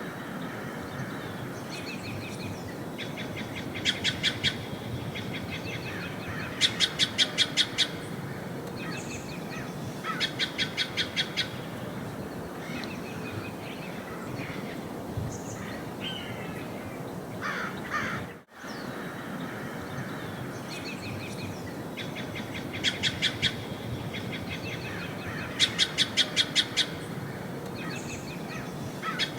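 A wild bird calling in short bursts of rapid repeated notes, each burst about a second long and a few seconds apart, over a steady background hiss. About two-thirds of the way through, the sound drops out for a moment and the same pattern of calls starts again.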